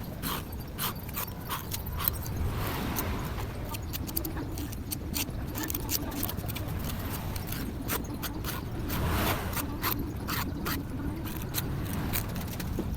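Small, irregular clicks and light scrapes of hand tools working on a smartphone's parts during a screen replacement, over a steady low hum, with two short rustling swells.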